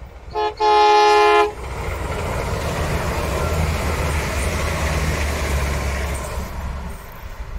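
Iarnród Éireann 22000 Class InterCity Railcar (diesel multiple unit) sounds a short toot and then a longer horn blast of about a second. It then passes at speed with a steady diesel rumble and wheel-on-rail noise, which fades near the end.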